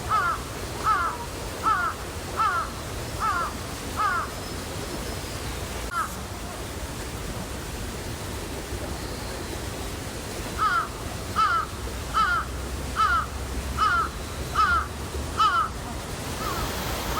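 A crow cawing in runs of short, evenly spaced caws, about one a second or a little faster: six near the start, a single caw midway, then eight more in the second half, over a steady background hiss.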